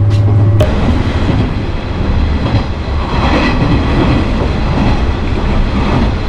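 Train running on the rails, with a rumbling, rattling wheel-and-track noise. A steady low hum cuts off about half a second in, and the rumble carries on after it.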